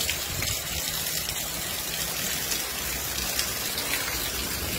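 Heavy rain pouring down onto a paved street, a steady, even hiss.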